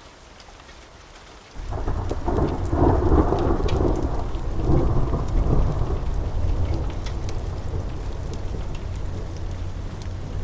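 A thunderclap breaks about one and a half seconds in: a sudden deep rumble that rolls for several seconds and slowly eases, over steady rain. Small sharp crackles are scattered throughout.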